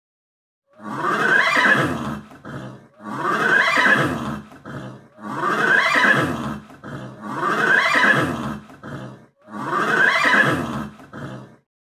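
An animal call played five times in a row, the same cry each time, about every two and a quarter seconds. Each call is loud and lasts about two seconds, with a brief weaker tail at its end.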